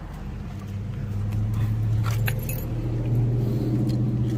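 A car engine running steadily with a low hum that grows slightly louder, with a few light metallic clicks and jingles about a second or two in.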